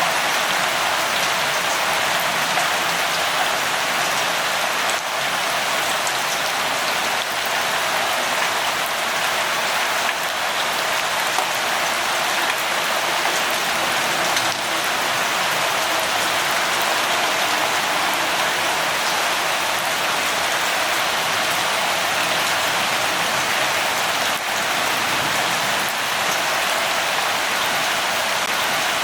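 Steady rain falling: an even hiss with scattered drops and no change in strength.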